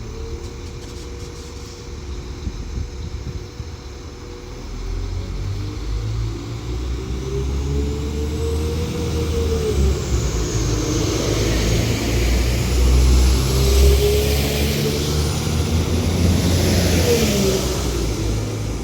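Diesel engines of a Northern Class 195 multiple unit pulling away from a station, growing louder. The engine note rises in pitch several times, falling back after each rise, and a hiss from the wheels on the rails builds as the train picks up speed.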